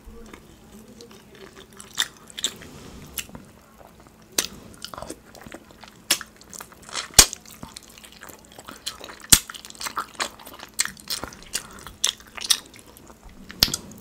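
Close-miked biting and chewing of a rotisserie chicken drumstick in sauce: many irregular sharp clicks and crunches, the loudest about seven and nine seconds in.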